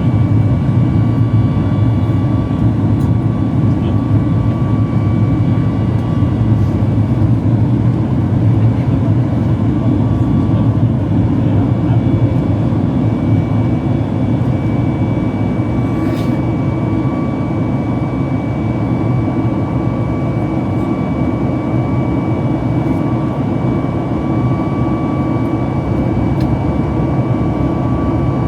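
Boeing 737 MAX 8 in flight heard from the passenger cabin: a steady, even roar of jet engines and airflow. A faint high whine comes in about halfway through.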